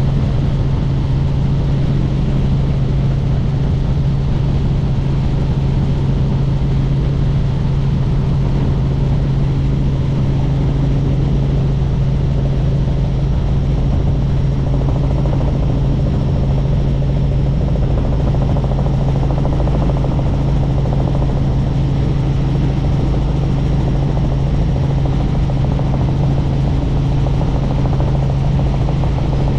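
Helicopter in steady cruising flight: a loud, unchanging drone of rotor and engine with a strong low hum.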